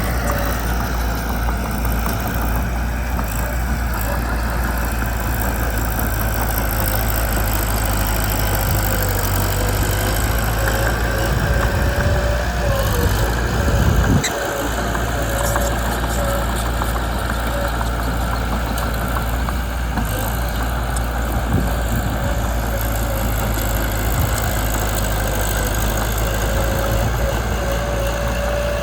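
Mitsubishi BD2 bulldozer's diesel engine running steadily, with a wavering whine over the rumble. The engine swells in loudness for a few seconds around the middle, then drops back sharply.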